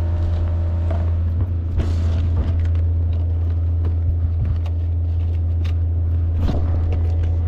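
Gear being handled and strapped up: scattered knocks and rustles, the clearest about two seconds in and near the end, over a loud, steady low rumble.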